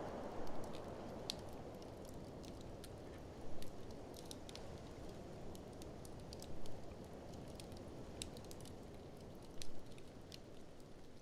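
Wood fire in a fireplace crackling with irregular sharp snaps and a few louder pops about every three seconds, over a steady low rush of blizzard wind.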